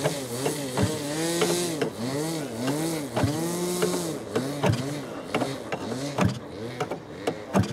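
An electric starter turning over an Irvine .53 two-stroke glow engine in repeated short bursts. Each burst whirs up and winds down in pitch, with a click between bursts, about one a second at first and quicker later on.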